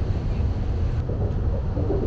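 Inside a moving Saphir Odoriko (E261 series) express train: a steady low rumble of the train running along the track.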